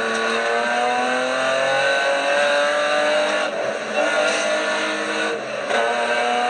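BMW E36 325 rally car's straight-six engine heard from inside the cabin, pulling hard under full load with its pitch rising steadily for about three seconds. It breaks off briefly twice, a little past halfway and again near the end, then pulls again at a higher pitch.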